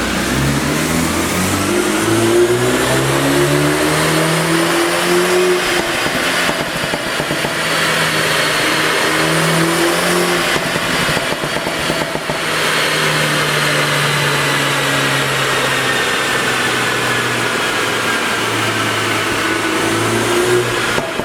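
BMW 330i's turbocharged four-cylinder engine, on a pop-and-burble exhaust tune, pulling through the gears. The engine note climbs over the first few seconds, drops back at shifts around six and ten seconds, holds steady for a while, then rises again near the end.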